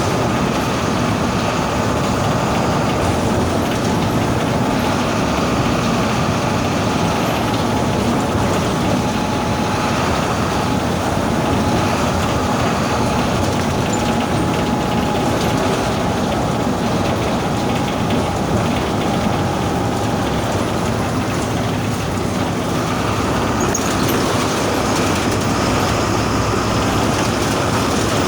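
The bus's MWM 6.12 TCE 7.2-litre six-cylinder turbodiesel running steadily at medium to high revs. A faint high whine holds steady from about 8 seconds in to about 20 seconds.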